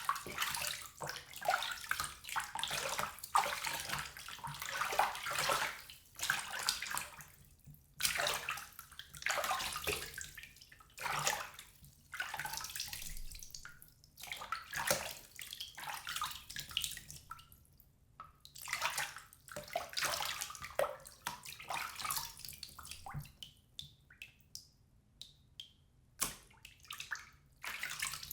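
Bathwater sloshing and splashing in a bathtub as a person moves in it, in irregular waves every second or two. Near the end it settles into scattered drips and small plops.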